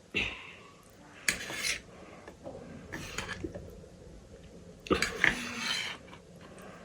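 Cutlery clinking and scraping against a dish in four short bursts, spread about a second or two apart.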